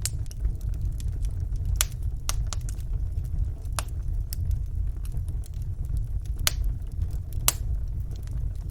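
Wood fire burning in a fireplace: a steady low rumble of the flames with small crackles and several sharp pops, the loudest about two, four, six and a half and seven and a half seconds in.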